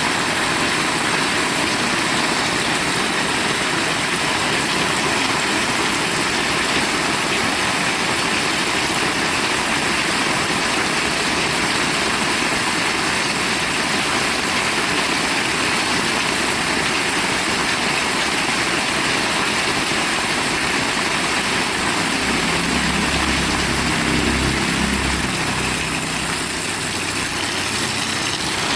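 Heavy rain pouring steadily, a dense even hiss. A low rumble rises under it for a few seconds about three-quarters of the way through.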